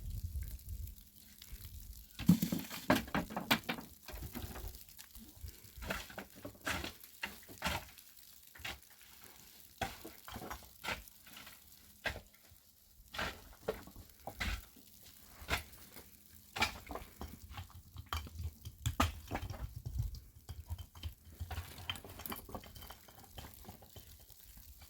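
Irregular sharp clinks and knocks of objects being handled, with a denser clatter about two seconds in.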